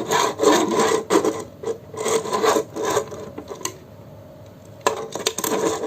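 Small plastic wheels of a Bandai Minipla model kit rolled back and forth across a tabletop, making a rasping rolling sound in repeated strokes. The strokes die down about halfway through and pick up again near the end.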